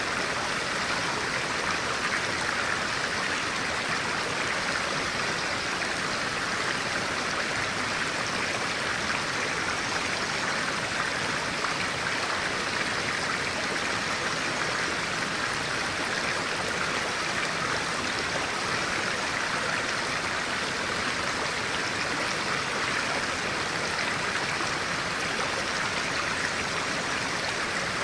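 Stream of clear water flowing with a steady, even rush.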